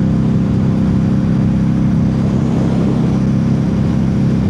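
Harley-Davidson Street 500's liquid-cooled V-twin engine running at a steady cruising speed while riding, heard under a steady rush of wind and road noise.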